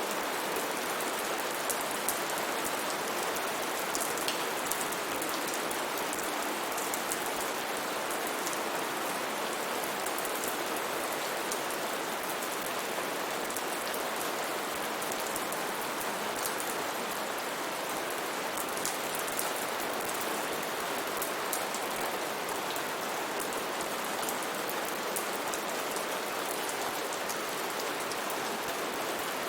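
Steady rain falling, with many individual drops ticking sharply on a hard surface over the even hiss of the downpour.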